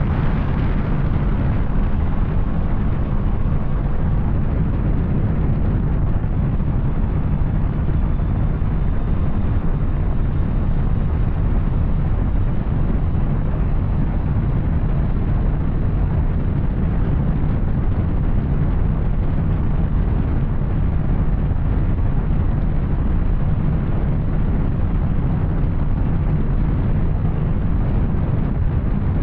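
Yamaha Tracer 900's three-cylinder engine with an Arrow aftermarket exhaust, running steadily at an even speed under way, a constant deep rumble mixed with road and wind noise.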